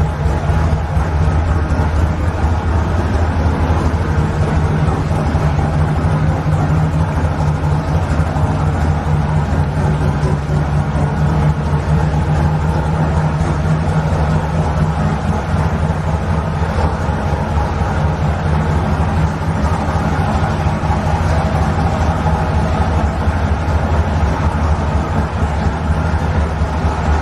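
A car engine idling steadily: a constant low hum with no revving.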